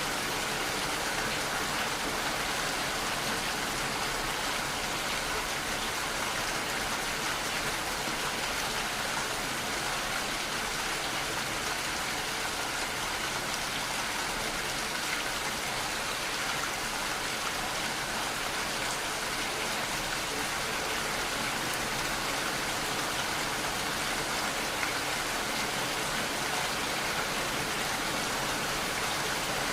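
Steady rainfall, an even hiss of raindrops falling on a surface, with no thunder or other events.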